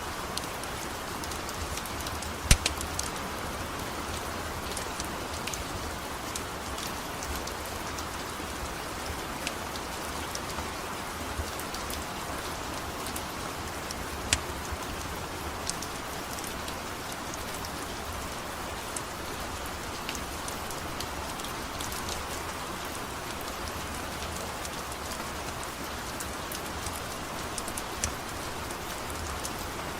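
Steady rain falling, with scattered sharp clicks and pops, the loudest about two and a half seconds in.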